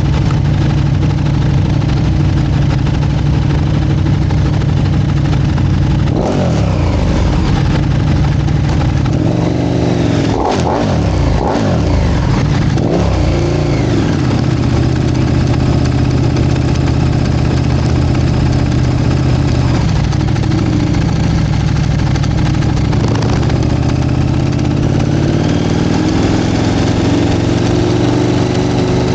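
Motorcycle engines idling steadily, revved a few times around the middle so the pitch sweeps up and falls back, with a slower rise near the end.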